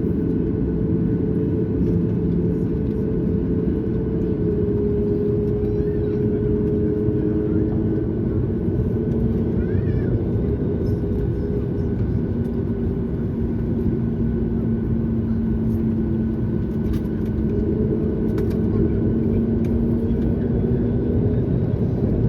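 Boeing 737-9 MAX jet engines (CFM LEAP-1B) running: a steady rumble and rush of air with a few held engine tones that shift slightly in pitch, getting a little louder near the end.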